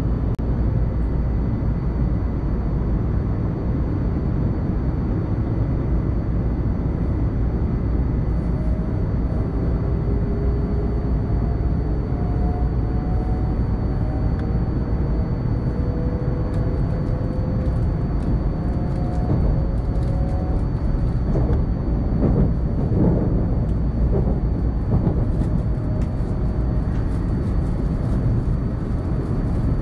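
Inside the cabin of a Tohoku Shinkansen train running at speed: a steady low rumble from the car and its running gear. Faint tones slowly rise in pitch through the middle, and there is a brief swell of noise a little later.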